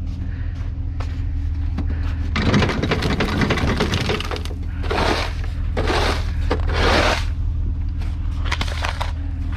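Snow crunching and scraping: a long scrape about two and a half seconds in, then three shorter crunches about a second apart, over the steady hum of an idling engine.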